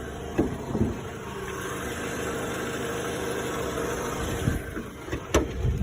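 2010 Toyota RAV4's dual VVT-i four-cylinder engine idling steadily with the hood open, with a few short clicks.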